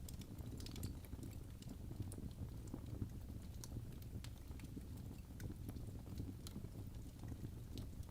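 Wood fire burning in a fireplace: irregular crackles and small pops over a steady low rumble of the flames.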